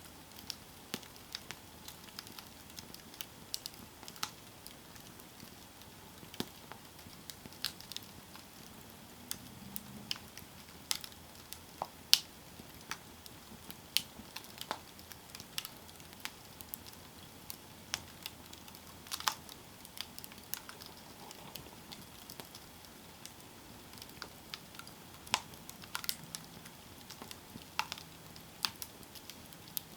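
Campfire burning: irregular sharp crackles and pops over a soft steady hiss, with one louder pop about twelve seconds in.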